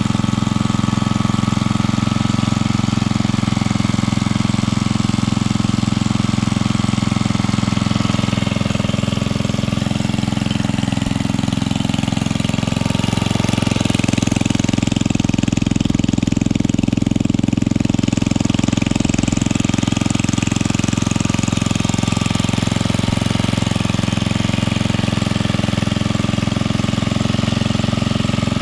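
Early-1970s Briggs and Stratton 4 hp single-cylinder engine, model 100202, running steadily at a constant speed.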